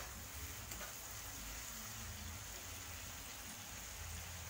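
Tomato masala frying in oil in a kadai: a steady, faint sizzle.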